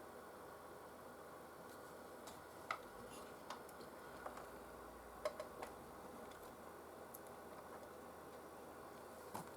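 Faint steady running noise from the PlayStation 4 under test, with light, irregularly spaced clicks and ticks scattered through it.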